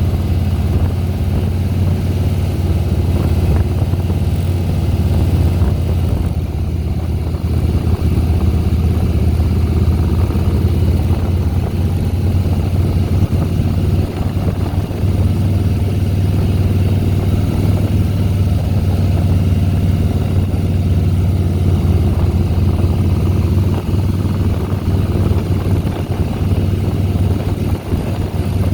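Harley-Davidson Softail Deluxe's Twin Cam 96B V-twin running steadily as the motorcycle is ridden, a constant low engine drone with no pauses.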